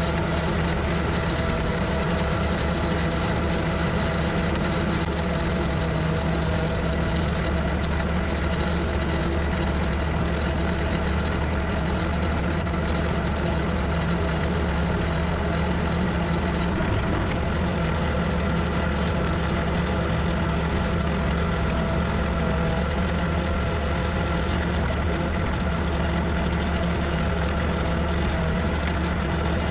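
Tractor engine running steadily while mowing with a bush hog rotary cutter, a constant even drone with no change in speed.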